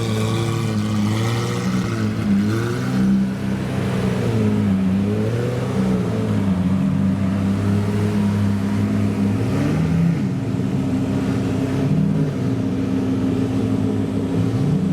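Supercar engines running at low revs, the pitch rising and falling several times as the revs are blipped.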